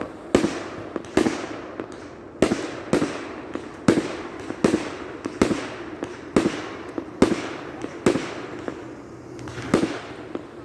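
Aerial firework shells bursting in quick succession, about fifteen sharp booms over ten seconds, each trailed by a short echoing rumble.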